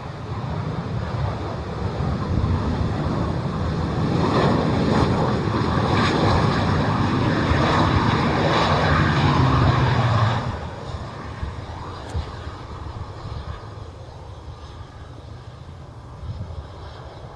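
Jet airliner's engines running as it passes, the noise building over the first few seconds, then dropping off abruptly about two-thirds of the way through to a lower wind-like rush.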